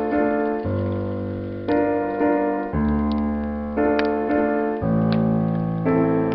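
Solo piano playing a slow, gentle cinematic piece, with a new chord over a held bass note struck about once a second. A few sharp crackles from a burning wood fire sit underneath.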